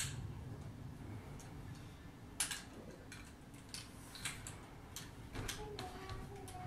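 Plastic LEGO bricks clicking as pieces are handled and pressed together: scattered light ticks, the sharpest about two and a half seconds in.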